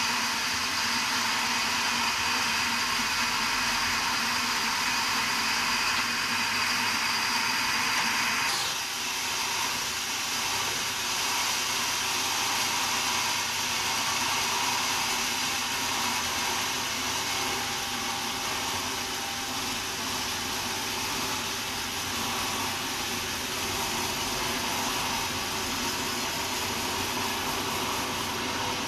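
Sawmill saw running steadily with a dense machine noise. A high whine sounds over it and falls away sharply about eight seconds in.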